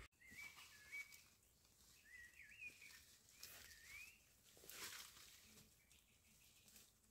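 Near silence with faint bird song: a few short warbling phrases in the first three seconds or so, and a few faint rustles.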